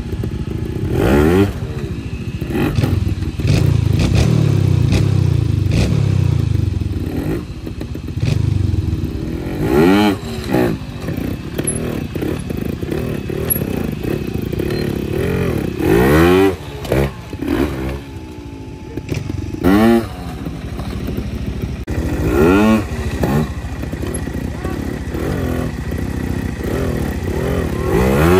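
Trials motorcycle engine running low between repeated sharp throttle blips, each a quick rise and fall in pitch, as the bike is hopped up rock ledges.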